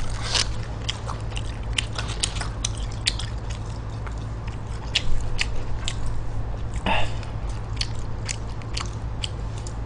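Close-miked chewing of stir-fried pig intestines and rice: irregular wet mouth clicks and smacks, over a steady low hum.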